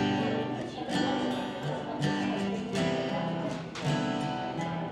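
Live band playing the instrumental outro of a slow song, with guitar chords struck about once a second over held notes.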